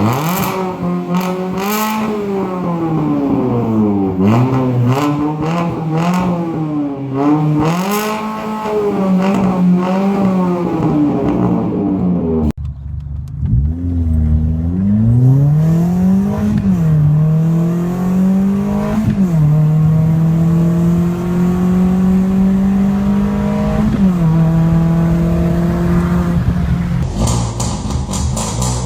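Fiat Panda 100HP's 1.4-litre naturally aspirated four-cylinder engine and exhaust, revs rising and falling over and over for about twelve seconds. After an abrupt change it pulls up through the revs with two sharp drops like upshifts, settles to a steady drone, drops once more near the end and holds steady again.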